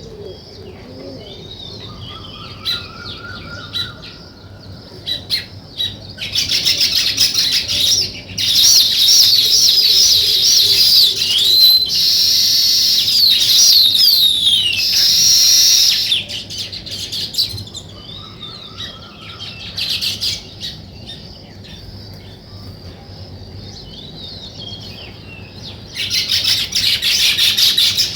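A flock of small songbirds chirping and chattering. The calls swell into loud, dense chatter for several seconds at a time, with quieter scattered chirps in between.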